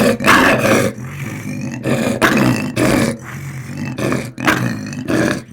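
Lion roaring in a run of short, loud, rough calls, roughly one to two a second, the first ones the loudest.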